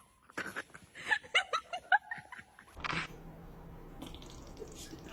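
A person laughing in a quick run of short bursts for about two seconds, followed by a steady low hum.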